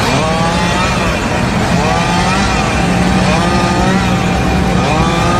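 A motor running loudly, its pitch rising and levelling off again about every second and a half over a steady low hum.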